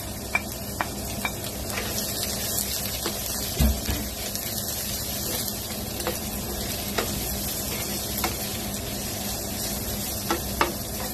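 Sliced onions, garlic and ginger sizzling in hot oil in a non-stick frying pan while a spatula stirs them, with a few sharp ticks and one dull knock about three and a half seconds in.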